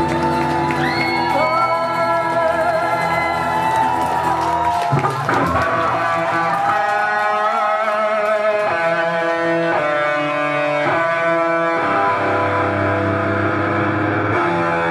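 Live rock band playing an instrumental passage: a lead line of long, bending, wavering notes over sustained chords and a bass line.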